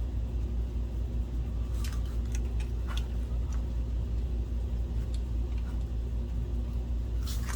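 Steady low background hum with a few faint, short clicks of small metal optical parts being handled, and a brief rustle near the end.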